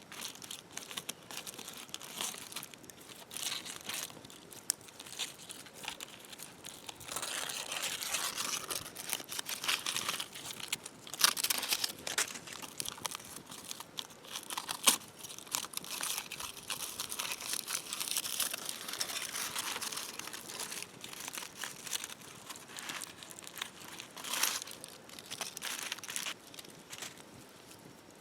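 Irregular crinkling and crunching with many sharp clicks, busiest through the middle, with a few louder snaps.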